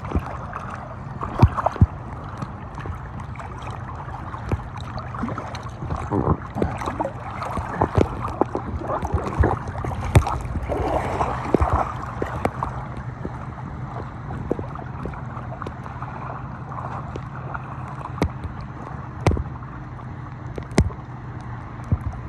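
Water splashing and slapping against a raft on choppy lake water, with irregular sharp knocks and a busier stretch of splashing about halfway through.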